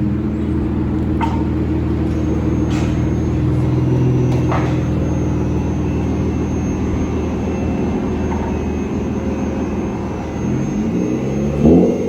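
Straight-piped, catless Acura TL V6 exhaust running at steady revs with a deep, even drone. Near the end the revs change and the pitch moves, with a brief louder burst.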